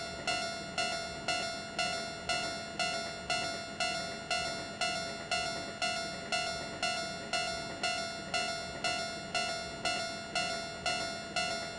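Railway level-crossing warning bell ringing steadily, about two even dings a second, signalling an approaching train.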